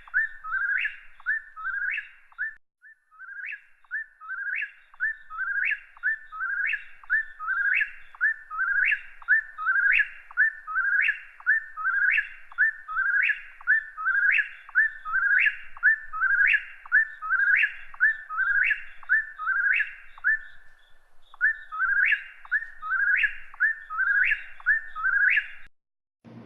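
A songbird singing the same quick phrase of sharply rising whistled notes over and over, about two notes a second, with short breaks about two and a half seconds in and again near twenty-one seconds; the song stops shortly before the end.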